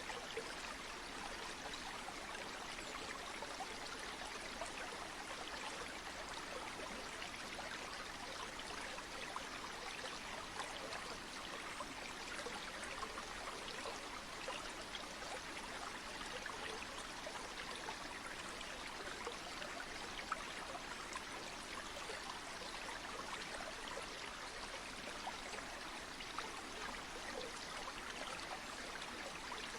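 Stream or small river water flowing steadily, an even rush with small splashes scattered through it and no change over time.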